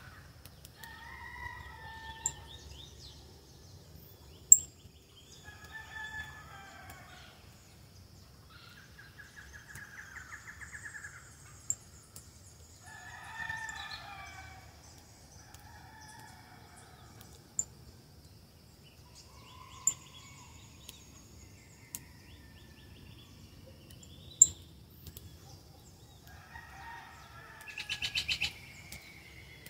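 Birds calling: short, rough calls with several tones repeated every few seconds, and a longer, louder call near the end. A few sharp clicks stand out over a faint steady hum.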